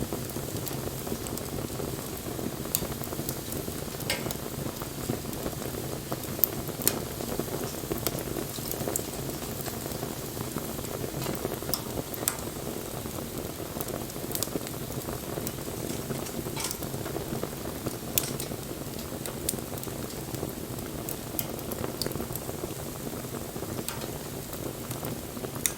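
Wood bonfire burning: a steady hiss with scattered sharp crackles and pops.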